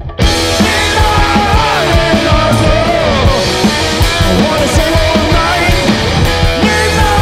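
Live garage punk-blues rock band playing a loud song, cutting in abruptly at the start after a brief dropout.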